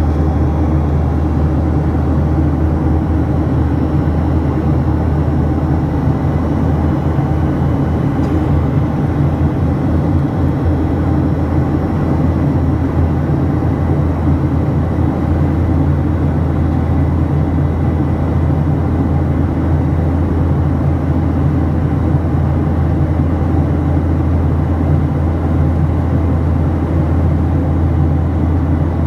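Steady drone of a Boeing 737-800 in flight heard inside the passenger cabin: its CFM56 jet engines and the rushing airflow make an even low rumble with a faint high whine, unchanging throughout.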